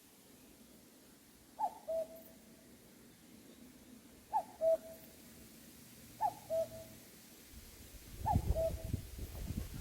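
Common cuckoo calling its two-note "cuck-oo", a higher note then a lower one, four times about two to three seconds apart. Wind rumbles on the microphone during the last two seconds.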